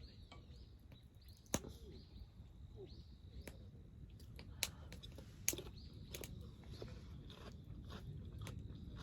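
Irregular sharp clicks and crackles, a few seconds apart and sometimes in quick pairs, with faint bird chirps behind.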